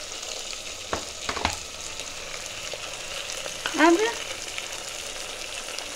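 Mutton, onions and spices frying in hot oil in a pressure cooker, a steady sizzle. Two sharp knocks, about a second and a second and a half in.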